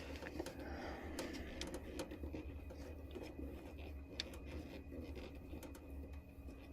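Faint scattered clicks and light taps of furnace parts being handled gently, over a steady low hum.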